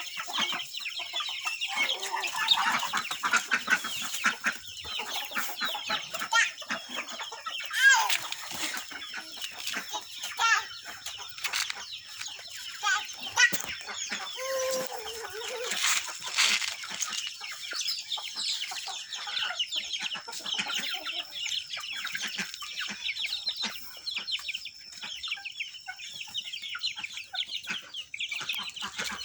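A flock of chickens clucking, many short overlapping calls without a break.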